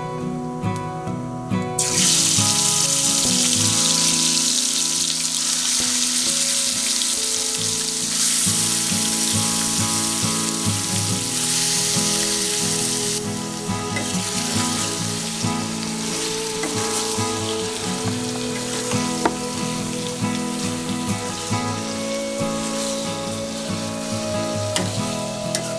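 Food sizzling as it fries in hot oil. The sizzle starts suddenly about two seconds in, is loudest for roughly the next ten seconds, then carries on more quietly. Background music plays throughout.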